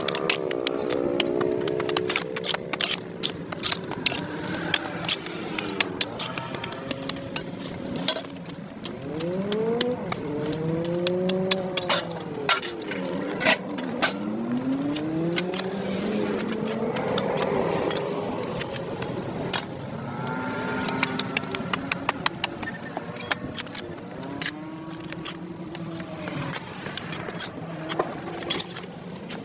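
Passing motor vehicles, their engine pitch rising and falling over a second or two at a time, over a continual scatter of short sharp clicks and scrapes.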